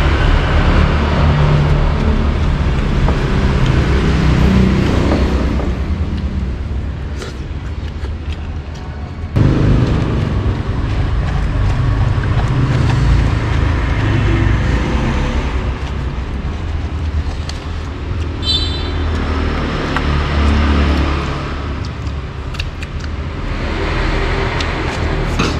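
Steady road traffic noise: vehicles rumbling past, with a sudden jump in level about nine seconds in and a brief high-pitched tone a little after the middle.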